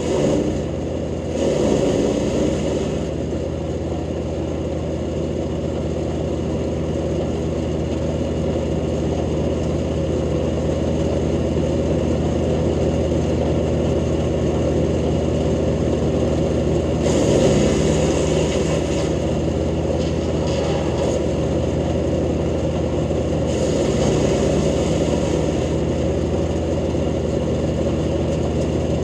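Jansen GTS-1500 wood chipper running steadily, its engine and rotor holding an even pitch, with louder rushes of branches being fed and chipped at the start, again about two-thirds of the way through and once more a few seconds later.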